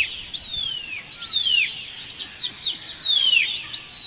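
Several black kites calling: shrill whistles that rise sharply and then slide down, repeated and overlapping one another about every half second.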